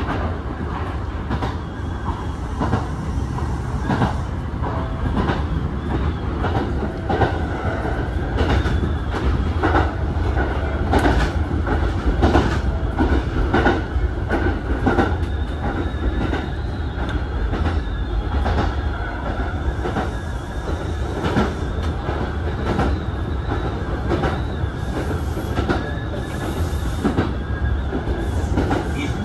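Kintetsu 2000 series commuter train heard from inside its cab while running along the line: a steady low rumble with repeated clacks from the wheels over rail joints, and a thin high squeal from the wheels at times.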